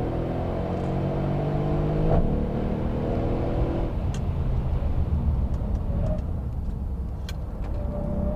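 Mercedes-Benz E63 AMG S-Model's twin-turbo V8 pulling hard with rising pitch, with a quick upshift about two seconds in. After about four seconds the throttle comes off and the engine drops to a low rumble, with a few sharp clicks.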